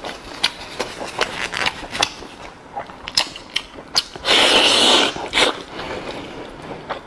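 Close-miked mouth sounds of eating tripe-wrapped beef: wet clicks and smacks of chewing and biting, with a louder noisy mouthful sound lasting about a second a little over four seconds in.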